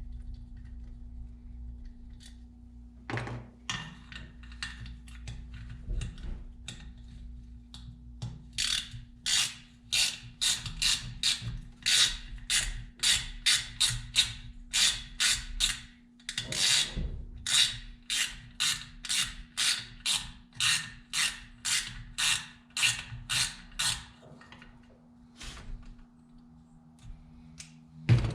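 A ratchet wrench worked back and forth in quick strokes, about two a second, loosening a fastener on a McCulloch 1010 chainsaw. Scattered clicks come before it, a steady faint hum runs underneath, and there is a sharp knock at the very end.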